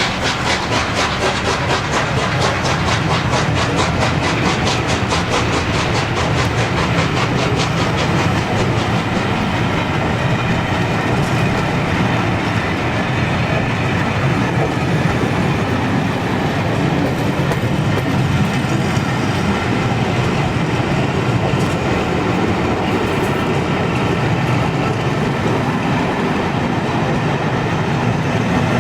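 Steam-hauled charter train of LNER A1 Pacific 60163 Tornado and its 13 coaches on the move. A fast, even clicking beat is heard for about the first ten seconds, then fades into a steady rumble of the train rolling.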